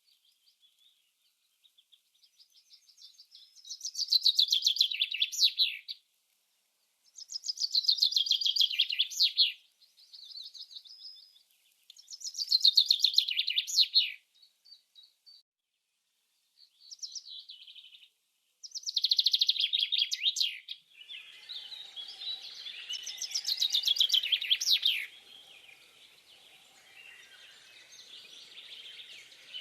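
A songbird singing: repeated high-pitched phrases of about two seconds, each a fast trill that slides down in pitch, coming every few seconds. About two-thirds of the way through, a faint steady background noise joins in.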